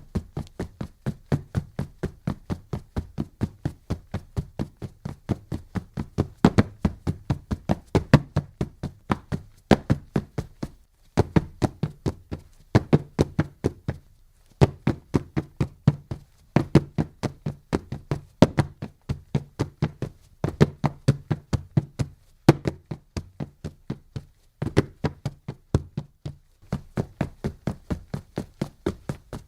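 Running footsteps of a sprinting hurdler, fast sharp strikes about four to five a second, in runs of a few seconds broken by short pauses.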